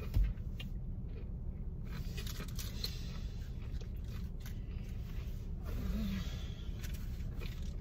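Chewing and crunching of cooked cornstarch chunks: irregular crisp crunches, over a steady low hum.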